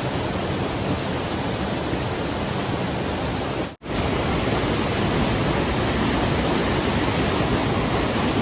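Steady rush of flowing stream water, broken by a momentary dropout just before four seconds in.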